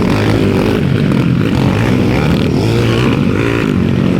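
Underbone motorcycles racing, several small engines revving up and down in pitch as the riders work the throttle around the track.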